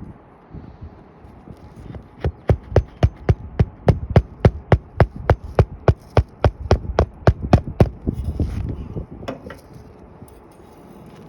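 Hand hammer driving roofing nails into an asphalt shingle: a quick, even run of sharp strikes, about four a second for five or six seconds, starting about two seconds in.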